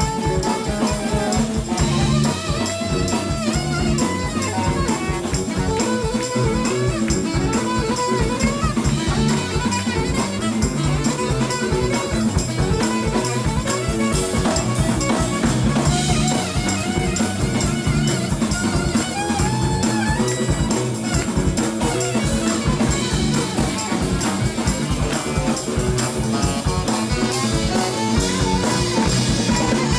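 Live band playing with drum kit and saxophone, a steady beat under a melody line.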